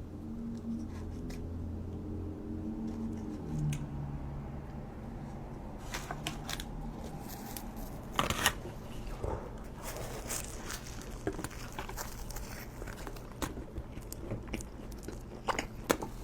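A person chewing food, with scattered wet mouth clicks and small crunches. A low hum sounds in about the first four seconds.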